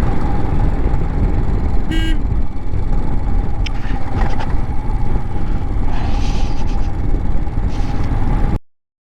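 Motorcycle riding at speed: heavy wind buffeting on the microphone over the steady engine note, with a short horn beep about two seconds in. The sound cuts off suddenly near the end.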